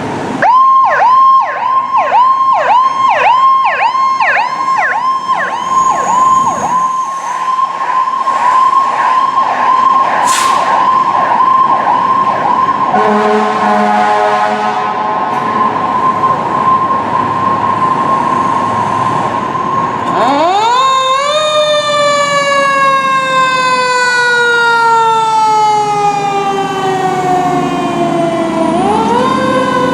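Fire truck siren in a fast yelp, about two sweeps a second, with a brief steady horn blast about halfway through. It then switches to a slow wail that rises, falls off gradually and rises again near the end.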